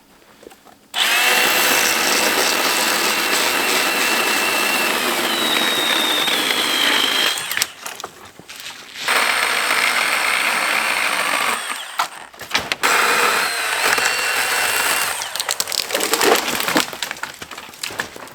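Battery-powered Milwaukee Hatchet pruning chainsaw cutting dead hardwood: an electric motor whine with the chain biting into the wood, in three long runs with short breaks about seven and twelve seconds in.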